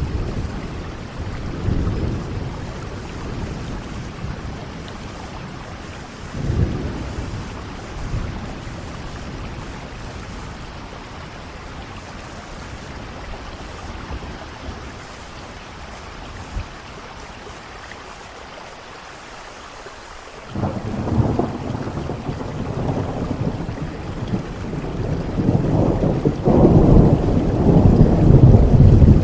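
Steady rain with distant thunder rumbling in the first few seconds. About two-thirds of the way through, a sudden loud thunderclap breaks in and rolls on, building to the loudest rumble near the end.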